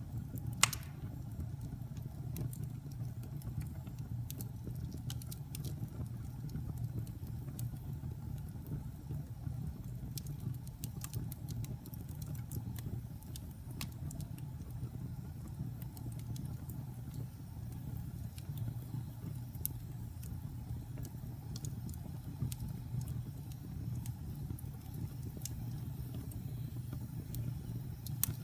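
Wood fire burning in a fireplace: a steady low roar of flame with scattered small crackles and one sharper pop about a second in.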